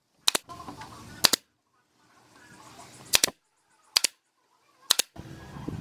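Five sharp knocks at uneven intervals of about one to two seconds, with short stretches of low work noise between them that break off abruptly into silence.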